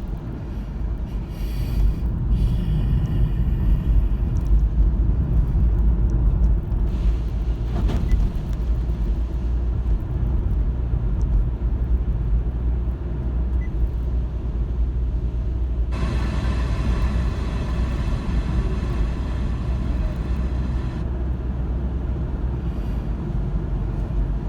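Car driving along a road: a steady low rumble of tyres and engine, with a brighter hiss joining for about five seconds late on.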